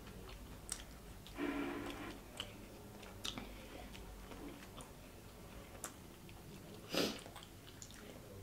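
Close-miked chewing of a mouthful of toasted sub sandwich, with small wet mouth clicks. A short hummed "mmm" comes about a second and a half in, and a brief breathy noise comes near the end.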